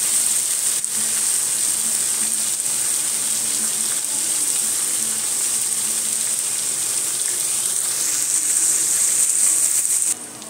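Beef tripe with onions and spices sizzling steadily as it fries in an open pan. The sizzle cuts off abruptly near the end.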